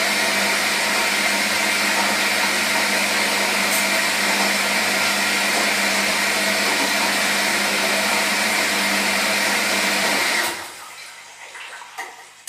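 Washing machine running with a steady motor hum and whirr, which cuts off abruptly about ten seconds in. A few faint clicks follow near the end.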